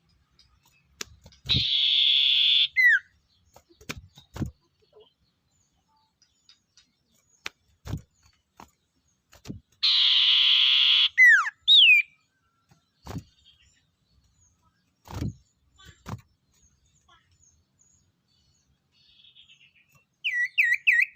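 Owl calls: two harsh, hissing screeches about a second long, each ending in a short falling whistled note, then a quick run of short chirping notes near the end. Scattered low knocks are heard between the calls.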